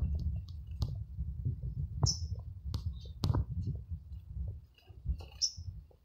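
Small bird giving two short, high chirps, about two seconds in and again near the end, among scattered sharp clicks and taps over a low rumble.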